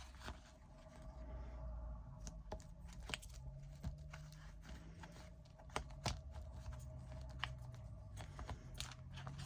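Faint rustling and scattered light clicks of small plastic bags of diamond-painting drills being handled and sorted, over a faint steady hum.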